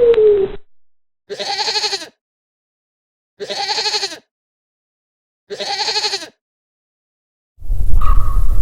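Three separate bleats from a sheep or goat-type farm animal, each just under a second long and about two seconds apart.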